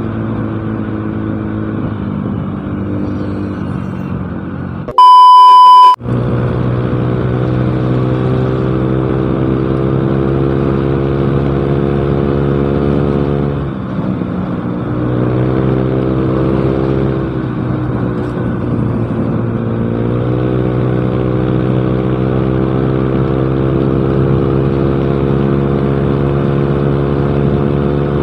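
Yamaha Mio Smile scooter's single-cylinder engine running through a cheap aftermarket exhaust while riding, its note dipping briefly about halfway through and then picking up again. About five seconds in, a loud, high, steady bleep tone lasts about a second and drowns everything out.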